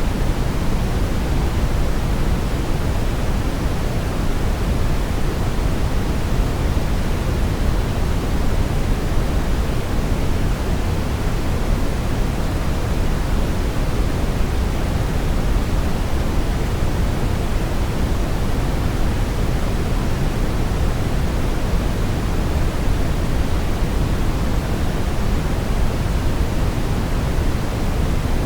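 Steady synthetic brown noise: an even, deep rushing hiss weighted toward the low end, with no changes.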